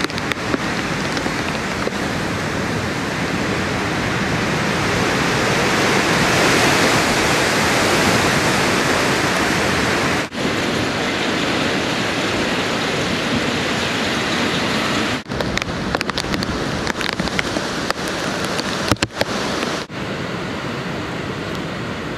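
Heavy typhoon rain and wind: a dense, steady rush of noise that swells about six seconds in. It drops out for a moment several times in the second half.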